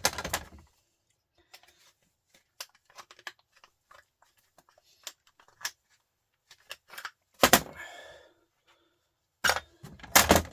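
Sharp metal knocks and clatter from a truck starter motor being worked apart by hand: a loud knock right at the start, another a little past the middle, and a pair near the end, with faint clicks and scrapes of tools and parts in between.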